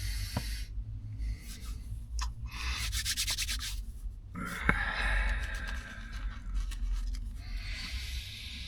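Paper food wrapping rustling and crinkling as it is handled, in irregular bursts, with a sharp click about halfway through.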